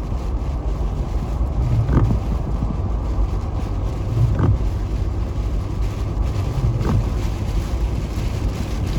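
Steady road and engine rumble inside a car's cabin on a snow-covered interstate, with the windshield wipers sweeping at an even beat, about once every two and a half seconds.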